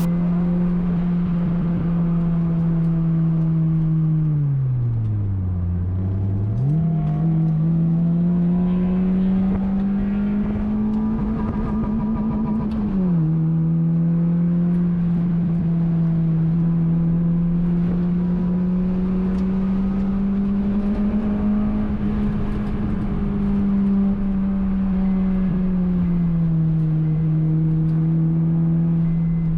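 Honda Fit's four-cylinder engine running hard at high revs on a race track. The engine pitch sinks low about five seconds in and climbs back, then drops suddenly about thirteen seconds in, as at a gear change.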